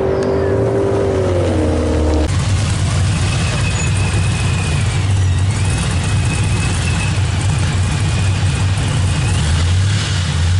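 A car engine far down a drag strip, its pitch falling as it winds down, then, after a cut, a fourth-generation Chevrolet Camaro's engine idling near the starting line with a low, uneven rumble. The Camaro begins to rev just at the end.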